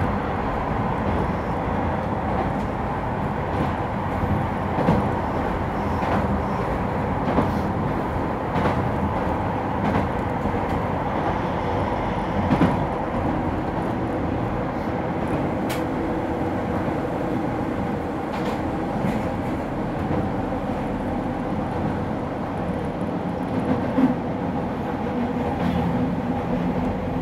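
Keihan 800-series electric train with a Toyo IGBT inverter drive, running steadily between stations and heard from inside the car. It makes a continuous hum with a couple of held tones and a few sharp clicks.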